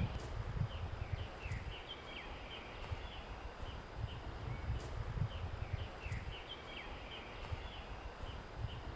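Birds chirping in many quick, short calls, over an uneven low rumble.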